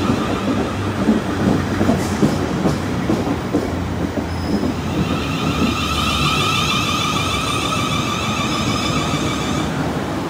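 Class 450 Desiro electric multiple unit moving along the platform: a steady rumble of wheels on rail with a high electric traction whine that fades about half a second in and comes back about five seconds in.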